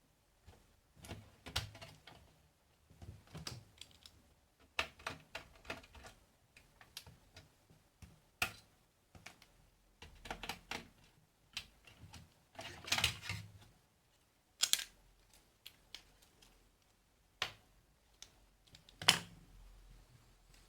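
Irregular clicks, taps and short scrapes of small hand tools and electronic parts being handled while components are removed from a receiver's circuit board, with one sharp, loud click near the end.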